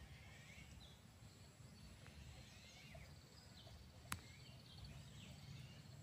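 Near silence with a low steady rumble, faint high bird chirps now and then, and a single sharp click about four seconds in.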